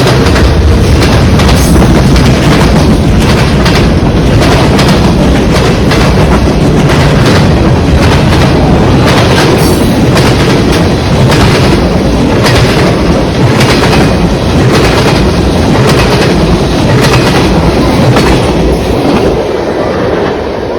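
CN freight train rolling past close by, its wheels clacking over the rail joints about once a second. The sound eases off a little near the end.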